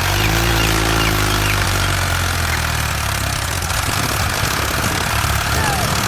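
A small engine running steadily, its pitch settling slightly lower in the first second or so, with birds chirping faintly.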